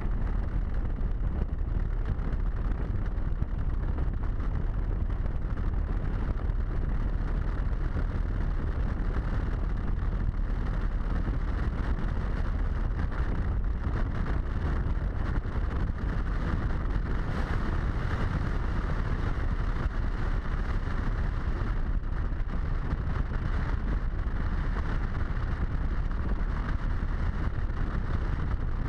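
Steady wind rush on a helmet-mounted camera's microphone over the low rumble of a Harley-Davidson motorcycle cruising at a steady speed.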